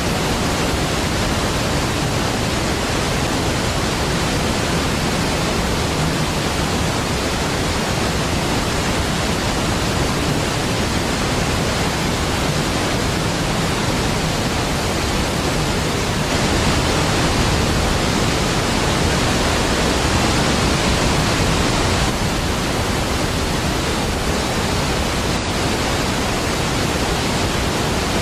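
Large waterfall, Niagara Falls, pouring in a steady, dense roar of falling water. It swells slightly for a few seconds past the middle.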